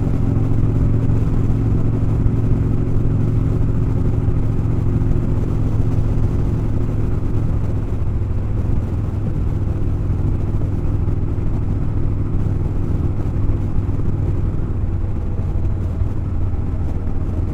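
Motorcycle engine running at a steady cruising speed on the road, its low tone holding even throughout.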